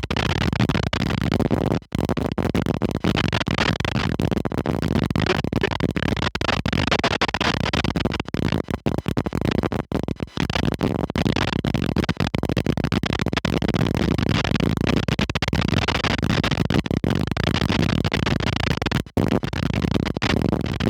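Strong wind buffeting the microphone: a loud, rough rushing noise that cuts out abruptly for an instant several times.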